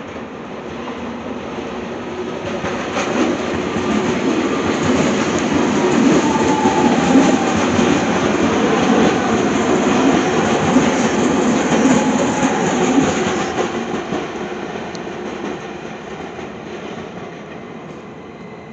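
Multi-car regional train passing close by on the tracks. Its running noise builds, peaks about midway with a brief thin wheel squeal, then fades as the train pulls away.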